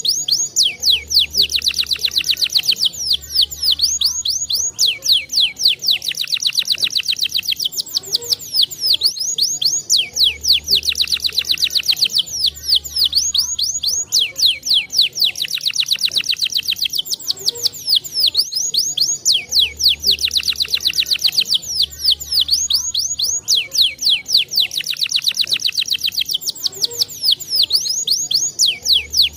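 Domestic canary singing fast, dense trills and chirping runs without a break, the same song sequence repeating about every ten seconds as a loop. A low humming tone comes and goes underneath in time with the loop.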